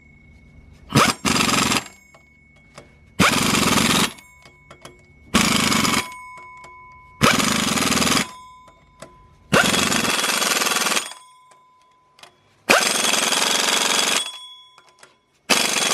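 Impact wrench rattling in seven short bursts, roughly two seconds apart, each starting sharply. It is running bolts in by feel rather than to a torque spec.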